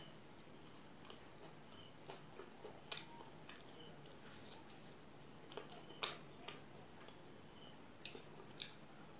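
Close-up eating sounds: biting and chewing a fried roll, heard as scattered sharp mouth clicks and wet squishes, the loudest about six seconds in.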